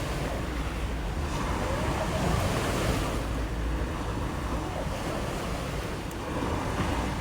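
Sea waves washing on the shore, with wind buffeting the microphone as a steady rumble.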